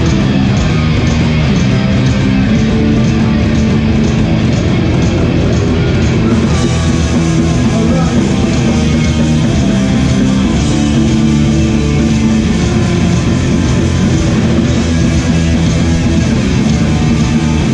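Live hardcore punk band playing loud: distorted electric guitars, bass and drums, with the cymbals coming in brighter about six seconds in.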